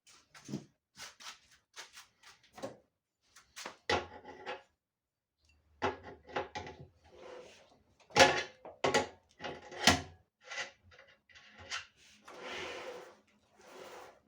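Irregular knocks, clacks and rattles of dryer parts and tools being handled during a tumble dryer repair, some of them ringing briefly. Near the end comes a sliding or scraping sound lasting about a second.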